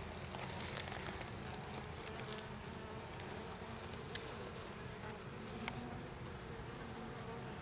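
Honeybees buzzing around an open hive as a steady hum, with a few sharp clicks partway through.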